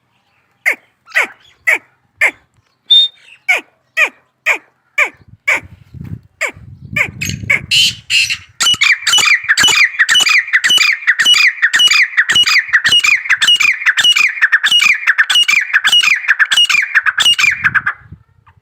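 Grey francolins, a pair, calling: first a series of single calls that fall in pitch, about two a second, then from about eight seconds in a louder, faster run of ringing calls that carries on until near the end.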